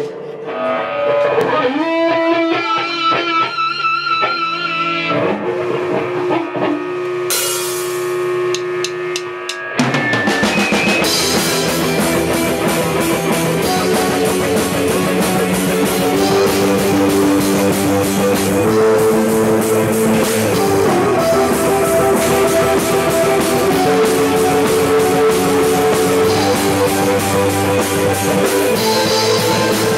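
Rock band playing a song: a sparse opening of plucked and held guitar notes, then drums, bass and guitars come in together about ten seconds in and play on at full volume.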